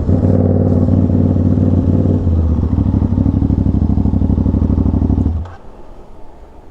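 Aprilia RS660 parallel-twin with an SC Project S1 full titanium exhaust idling with an even, loud pulse, then shut off abruptly about five seconds in.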